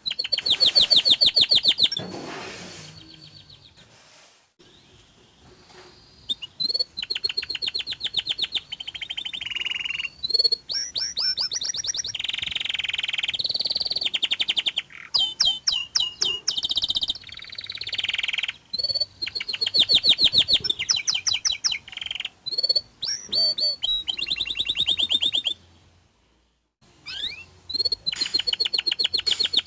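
Domestic canary singing a long song in full voice: fast rolling trills and rapid runs of high repeated notes, in phrases broken by short pauses, with two longer breaks, about four seconds in and about 26 seconds in.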